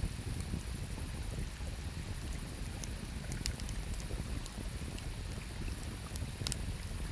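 Wood campfire crackling, with scattered sharp pops, the loudest about three and a half and six and a half seconds in, over a steady low rush of river water.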